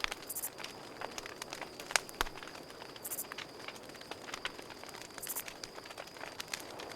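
Campfire crackling, with irregular sharp pops over a soft hiss, the sharpest about two seconds in. Behind it runs a steady high trill of crickets, and short very high insect buzzes come about every two and a half seconds.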